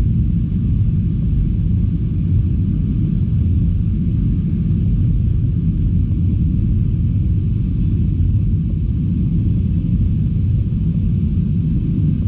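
Steady low rumble inside an Airbus A321 passenger cabin: engine and airflow noise, even throughout.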